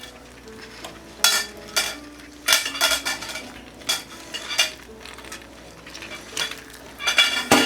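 A utensil stirring a thick rice, broccoli and chicken mixture in a skillet. It makes a series of short scrapes and clinks against the pan.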